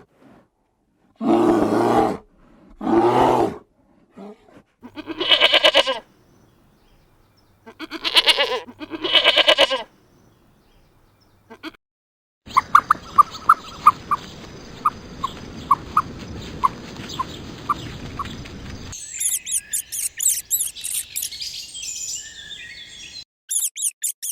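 A run of animal calls from separate clips. First come several loud, drawn-out pitched calls. Then a noisy stretch with a quick series of short high peeps, and finally high chirping.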